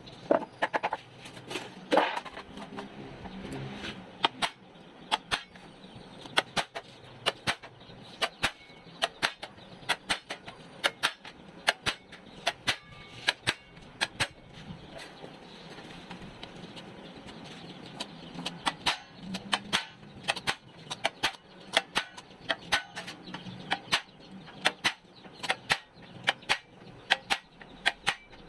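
Irregular sharp clicks and knocks of hand-tool work, coming one to three a second.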